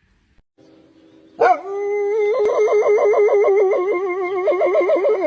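A dog gives one long howl with a wobbling pitch, starting about a second and a half in, after a faint whine.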